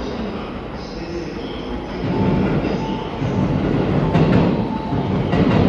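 JR 253 series electric multiple unit running along the track, its rumble growing louder about two seconds in. Thin high wheel squeal comes early, and sharp clicks of wheels over rail joints come near the end.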